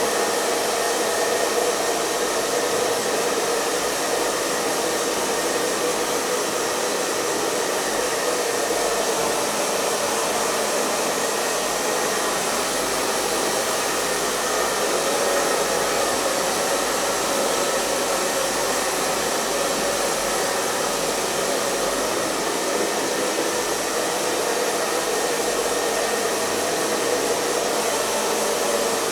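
Hair dryer running continuously: a steady fan whoosh of rushing air with a faint motor whine, unchanging in level.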